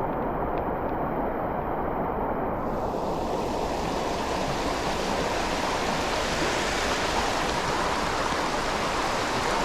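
Creek water running steadily, an even rush with no breaks.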